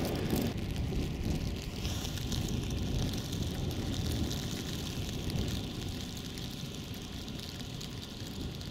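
Steady road noise of a vehicle driving through heavy snow: a low rumble with a hiss above it that grows a little louder about two seconds in.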